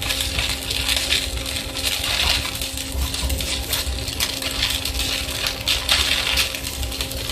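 Welding arc crackling and sputtering steadily, a dense run of irregular clicks over a constant low hum.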